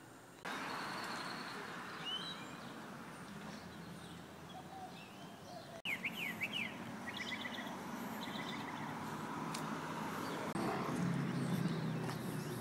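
Birds chirping several times, short sweeping calls and a quick trill, over a steady outdoor background hiss, with a low hum rising near the end.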